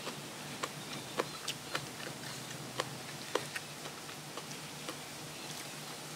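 Close-up eating sounds: irregular sharp crunches and mouth clicks, about ten over a few seconds, as food is chewed.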